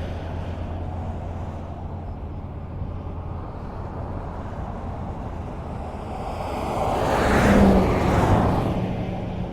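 Highway traffic: a steady rumble of distant cars, with one vehicle passing close by near the end, its tyre and engine noise swelling and fading.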